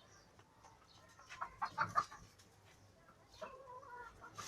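Egyptian baladi chickens clucking: a few short clucks in the middle and a longer drawn-out call near the end.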